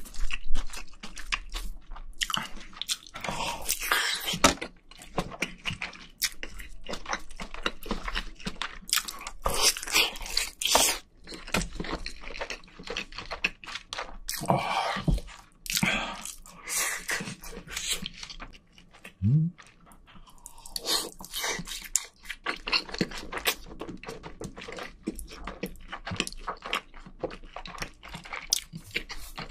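Close-miked eating sounds: chewing and crunching through mouthfuls of Spam and rice, with many irregular bites.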